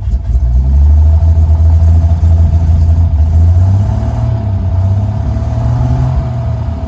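1953 Chevrolet 3600 pickup's engine running and being revved: the pitch climbs about half a second in, holds, then eases back down from about four seconds in.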